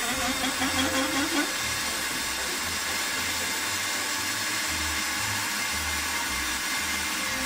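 Milling machine running and cutting on a long pass, its table fed by a tool fitted to the end of the table screw in place of hand cranking. Steady machine noise, with a fast rhythmic warble in the first second and a half.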